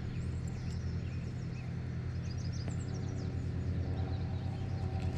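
Small birds calling with quick series of high chirps, over a steady low mechanical hum.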